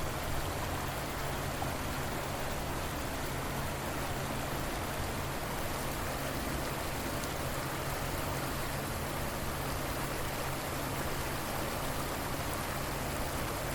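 River water flowing in a steady, even rush, with no breaks or single splashes standing out.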